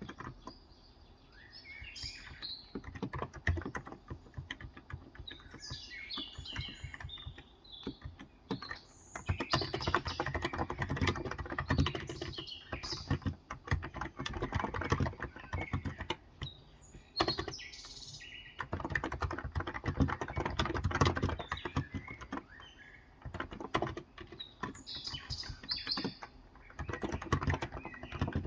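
Typing on a Cox Endeavour tenkeyless keyboard with 35 g electrostatic capacitive (contactless, Topre-style) switches, in runs of keystrokes with short pauses. Birds chirp outside in several short bouts.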